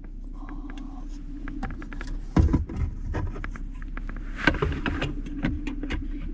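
Clicks, knocks and rustling of someone moving about and handling things in the cramped space of a van, with a heavy thump about two and a half seconds in, over a steady low hum.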